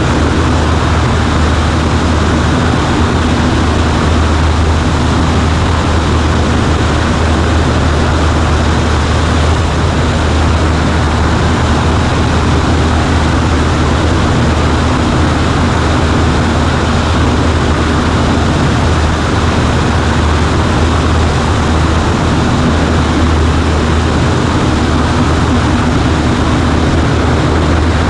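Cessna 140A's single piston engine and propeller running at a steady drone, unchanging throughout.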